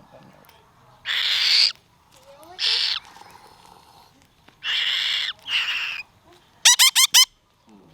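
Bird chicks giving harsh, hissing begging calls in four bursts of about half a second each, followed near the end by four quick, shrill squeaks.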